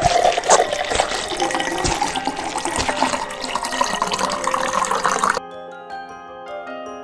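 Water running, as from a tap or a pour, over background music; the water stops abruptly about five seconds in, leaving only the music.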